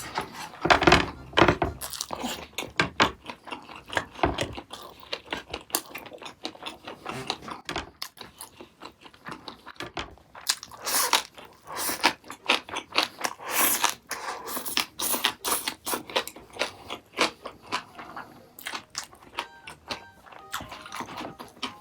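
Close-miked eating sounds: a person chewing and crunching food in quick, irregular bites.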